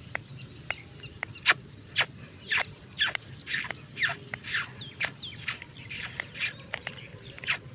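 Puppies squealing: a quick run of short, high-pitched squeaks, roughly two a second, some dropping in pitch.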